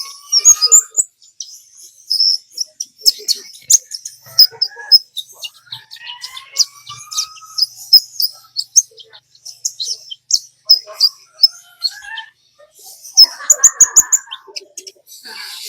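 Olive-backed sunbird singing: a rapid string of sharp, high chirps and short trills, broken by a few slower rising whistled notes.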